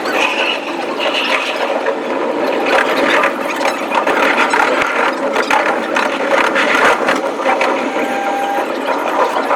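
Electric commuter train running on the line, a dense rattling clatter of rapid clicks, sped up with the footage. A few short thin tones sound near the end.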